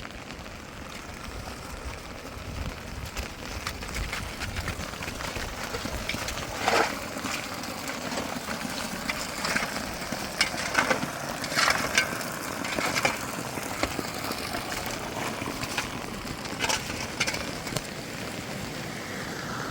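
Steady rain hiss, with an irregular run of sharp knocks and scrapes from about seven to seventeen seconds in.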